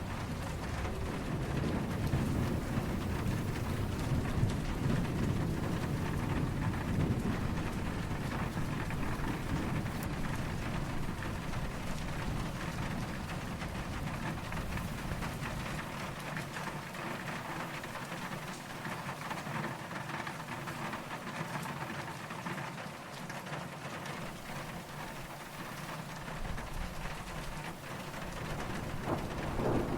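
Steady rain falling, with low, distant thunder rumbling through the first half. The rumble dies away around the middle and starts to build again near the end.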